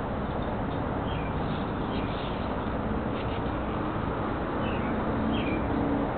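A small bird chirping a few times in short, falling notes over steady background noise.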